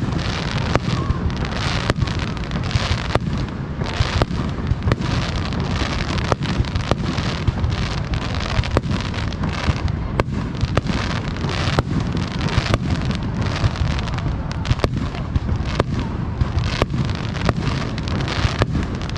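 Aerial fireworks shells bursting in a dense barrage, several sharp bangs a second over a continuous low rumble.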